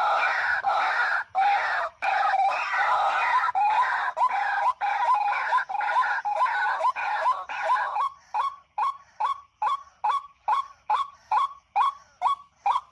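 White-breasted waterhen calling. At first the calls are dense and overlap. About two-thirds of the way in they turn into a clean, rapid series of short repeated notes, about three a second.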